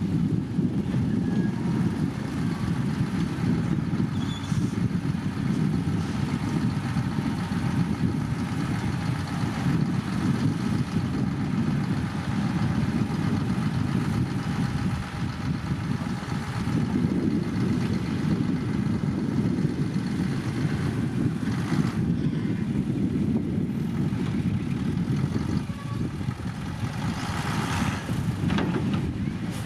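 Heavy diesel earthmoving machinery, a bulldozer or dump truck, running steadily with a deep engine rumble. A short burst of hiss or rattle comes near the end.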